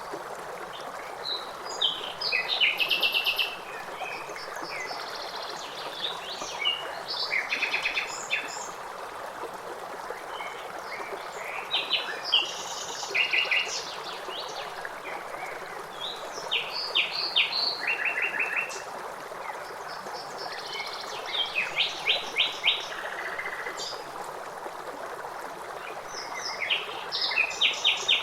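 Songbirds singing short phrases of rapid, trilled notes that recur every few seconds, over a steady rush of running water.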